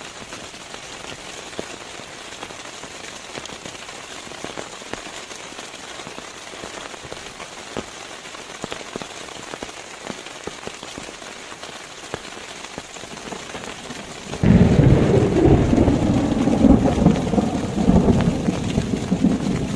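Steady rain, with many single drops ticking through it. About three-quarters of the way in, a loud low rumble of thunder breaks in suddenly and rolls on.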